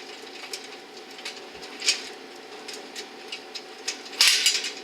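Scattered light clicks and taps of hand tools working bolts on a riding-mower engine's cover, over a steady low hum. A louder rasping noise comes about four seconds in.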